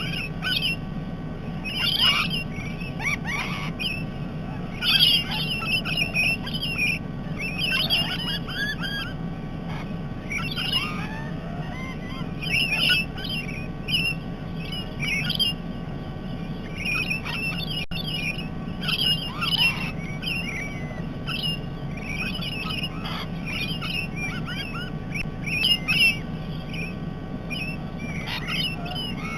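Parrots squawking and chattering, many short harsh calls overlapping throughout, over a steady low hum.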